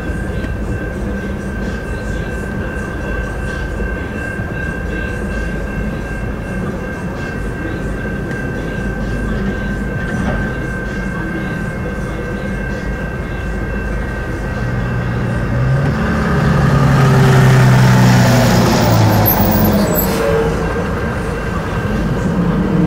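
CN business train's bilevel passenger cars rolling steadily through a level crossing, with the crossing warning bell ringing as a steady high tone throughout. A louder engine sound rises and fades between about 16 and 20 seconds in.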